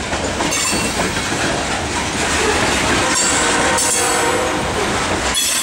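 Loaded coal train cars rolling steadily past, steel wheels clacking over rail joints. A high-pitched wheel squeal comes in about halfway through and again near the end.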